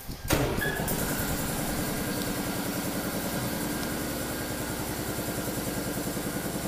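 Car engine starting about a quarter second in, then idling steadily with an even pulse.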